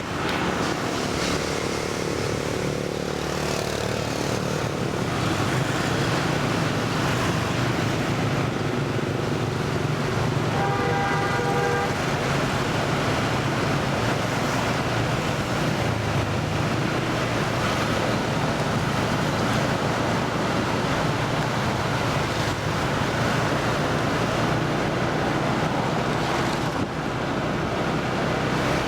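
Scooter ride: the engine runs steadily under rushing wind and road noise. A short horn-like tone sounds briefly about 11 seconds in.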